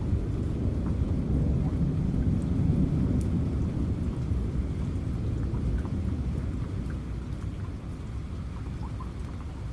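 A long, rolling rumble of thunder over steady rain, strongest two to three seconds in and slowly fading toward the end.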